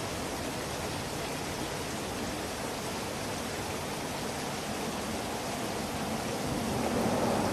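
Steady rushing noise like running water, with a lower rumble swelling in near the end.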